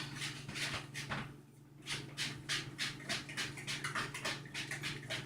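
Wire whisk beating cake batter in a plastic bowl: a few uneven strokes, then from about two seconds in rapid, even scraping strokes about five a second, over a steady low hum.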